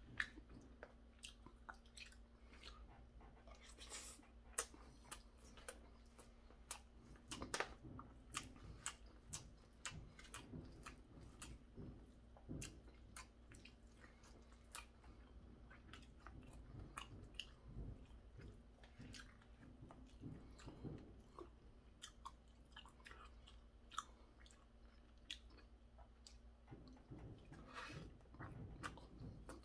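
Quiet close-up chewing of stir-fried pork cartilage: scattered small crunches and clicks as the cartilage is bitten. A faint steady hum runs underneath and stops near the end.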